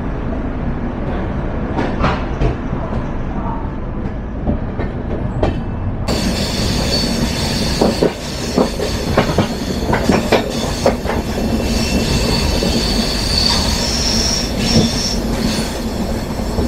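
Passenger train running on the rails: a steady rumble with scattered clicks from the wheels and rail joints. From about six seconds in, a high-pitched wheel squeal joins it.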